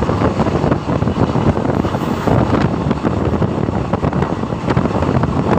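Loud, steady running noise of a moving Indian Railways passenger coach, heard from its open doorway, with wind buffeting the microphone.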